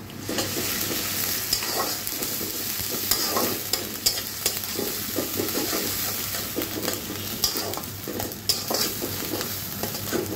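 Sliced onions and ginger paste sizzling in hot oil in a metal karahi, stirred and scraped around the pan by a flat metal spatula, with an irregular run of scraping strokes over the steady sizzle.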